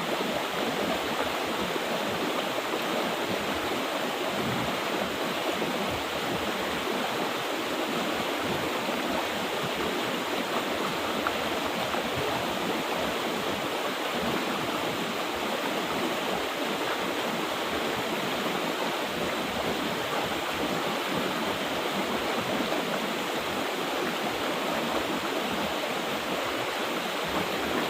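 Mountain river water rushing steadily over rocks, a constant even rush with no let-up.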